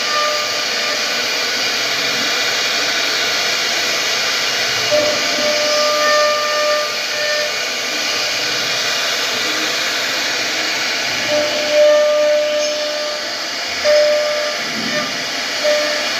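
Steady hissing machine noise, with a whining tone that comes and goes several times.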